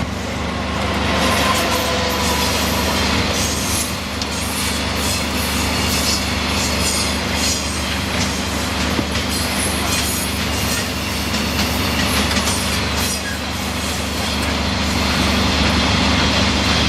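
An engine drones steadily while metal clanks, knocks and scrapes sound again and again as the fixing clamps are taken off a freshly welded rail.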